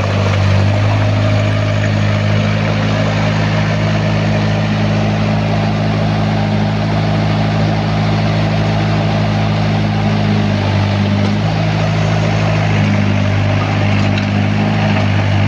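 Excavator's diesel engine running steadily under work, its note shifting briefly a couple of times in the second half.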